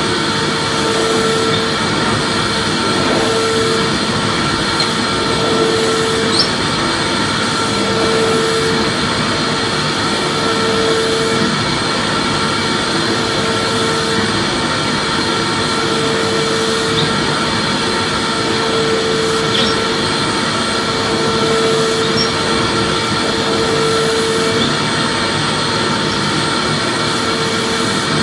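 Vacuum cleaner running steadily: a constant loud whooshing hum with a few steady whining tones, and a low hum that swells in and out about every two seconds.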